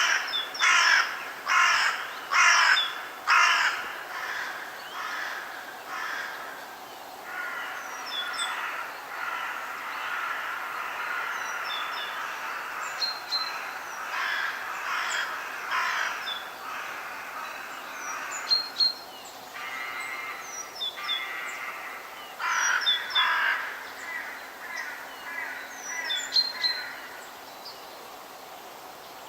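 Forest birdsong: harsh crow-like cawing, a quick series of about seven loud caws at the start, a denser stretch of calling in the middle and another run of caws about three-quarters through, with small birds chirping high and briefly in the background.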